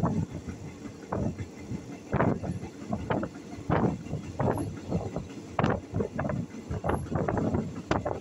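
Ordinary passenger train running along the track, with wind buffeting the microphone in uneven gusts.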